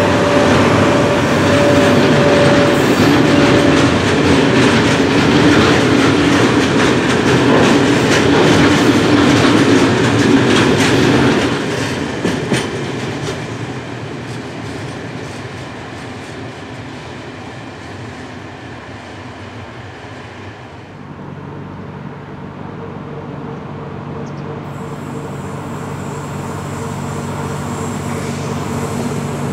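Sr1 electric locomotive passing close with a train of loaded log wagons, the wheels clattering over the rail joints, the sound fading after about eleven seconds as the wagons roll away. Then Dv12 diesel locomotives approach, a steady engine hum growing louder.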